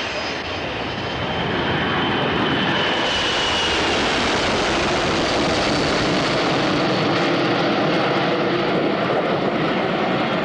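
Boeing C-17 Globemaster III's four turbofan jet engines running loud as it flies past. The noise builds over the first couple of seconds, with a high whine that falls in pitch midway and another rising near the end.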